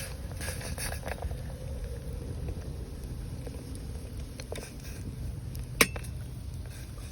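Camp cookware and utensils clinking lightly a few times, with one sharp clink nearly six seconds in, over a low steady rumble.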